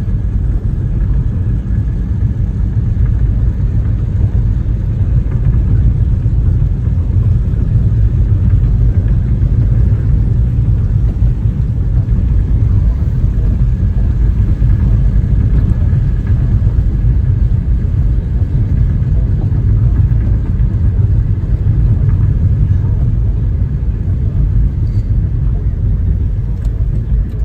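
Steady low road and engine rumble of a car driving, heard inside the cabin.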